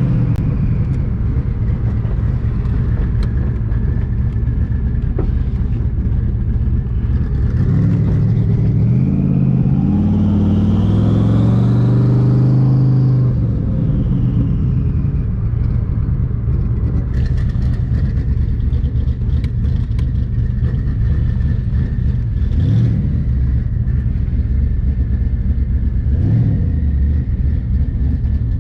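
Twin-turbocharged Terminator Mustang Cobra's 4.6-litre V8 driving along on the street, with a steady rumble. About eight seconds in it accelerates, the engine note climbing for several seconds with a rising whistle above it, then drops back; two short rises in revs come near the end.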